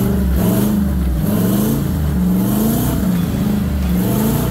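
An off-road 4x4's engine revving up and down over and over, its pitch rising and falling about once a second.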